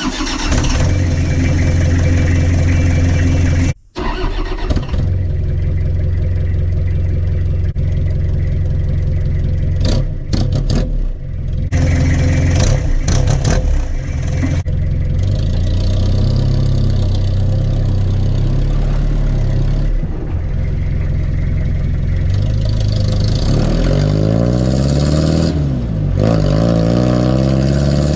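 Homemade exhaust on a 2000 Toyota HiLux LN147 with its 3.0-litre diesel, running at a steady engine speed, then revving up and down several times near the end. The sound breaks off briefly a few times.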